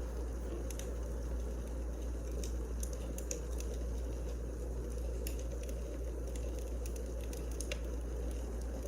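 Wood fire crackling in a fireplace: sharp, scattered pops and snaps over a steady low rumble.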